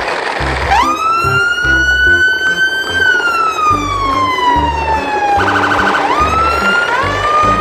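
Siren wailing: it sweeps up sharply, climbs slowly, then glides down over a couple of seconds, breaks into a short fast warble about five and a half seconds in, and sweeps up twice more near the end. Background music with a steady beat runs underneath.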